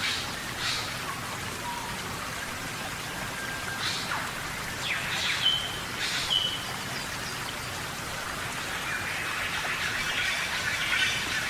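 Steady rain falling on rainforest foliage, with a handful of short chirping calls over it and a busier chirping from about nine seconds in.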